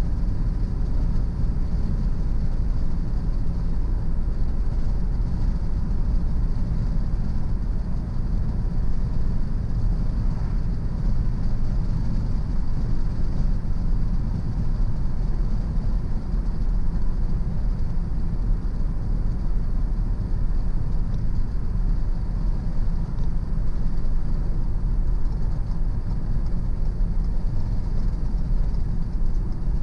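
Steady road noise of a car driving on a country road: an even low rumble of tyres and engine that holds without change.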